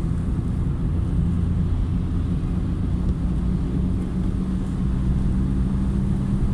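Car driving on a wet city highway: a steady low drone of engine and road noise with a held hum.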